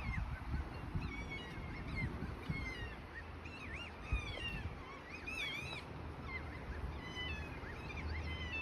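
Kea parrots calling: a run of short, repeated calls, some sliding downward and some rising and falling, over a low rumble of wind or handling noise.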